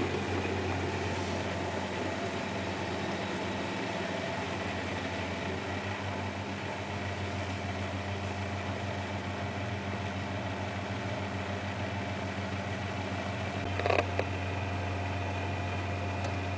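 Miele Hydromatic W734 washing machine running a wash, its motor giving a steady low hum, with a short knock near the end.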